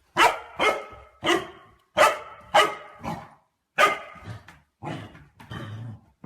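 A pet dog barking about nine times in quick succession. The later barks are softer, and the last is drawn out and lower.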